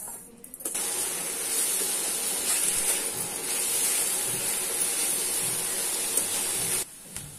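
Grated coconut and sugar sizzling in a steel kadhai as they are stirred, the sugar melting into the coconut: a steady hiss that starts abruptly under a second in and cuts off abruptly near the end.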